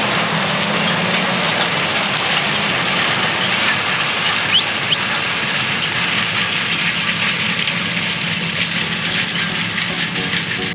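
Case IH 8250 combine running steadily: a loud, even mechanical rush with a low hum underneath.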